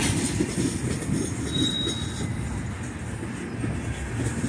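A freight train of tank cars rolling past with a steady rumble and clatter of wheels on rail. About a second and a half in, a wheel gives a brief high squeal.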